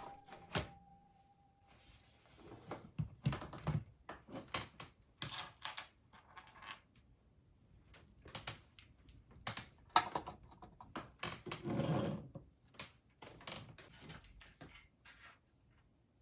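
Objects being handled: an irregular run of knocks, taps and clicks, with a short scrape or rustle about twelve seconds in.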